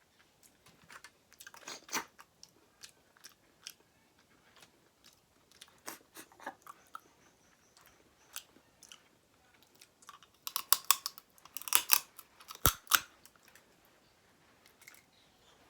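Close-miked chewing and crunching of seafood-boil food, with scattered wet clicks and a run of louder crunches about two-thirds of the way through.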